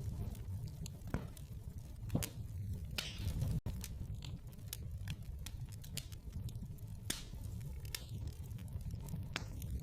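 Wood fire in a fireplace crackling, with irregular sharp pops over a steady low rumble. There is a short hiss about three seconds in.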